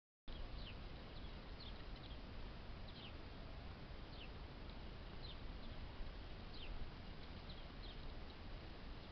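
Small birds giving short, high chirps that slide downward, scattered about once a second, over a steady rushing noise.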